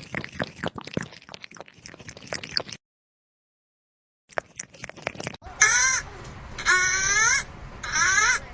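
Rustling and clicking, a sudden cut to silence, then three loud drawn-out meows about a second apart, each bending in pitch.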